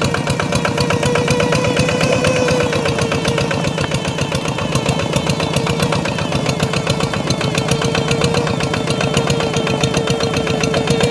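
Hand tractor's single-cylinder diesel engine running steadily in a rapid, even chugging, with a steady hum held over it.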